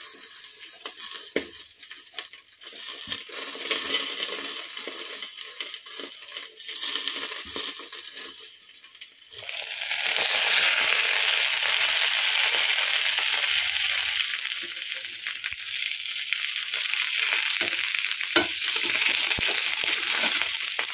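Banana-leaf-wrapped fish parcels sizzling in hot oil in a frying pan; about nine seconds in the sizzle grows suddenly louder and brighter and stays so. Near the end, scattered taps of a spatula against the pan as the parcels are turned over.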